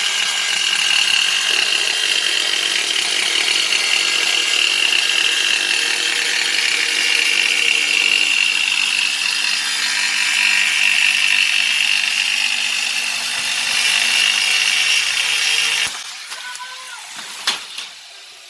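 Angle grinder with a thin 5-inch diamond blade cutting toughened glass, a loud steady high whine. Near the end it stops suddenly, followed by a sharp knock and a smaller one.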